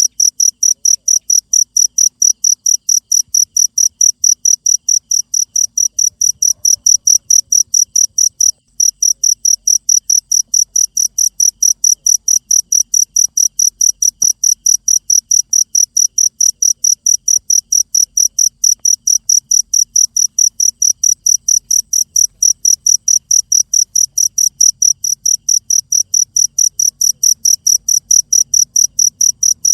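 Cricket chirping: loud, high-pitched, rapid and evenly spaced chirps, with a brief break about eight and a half seconds in.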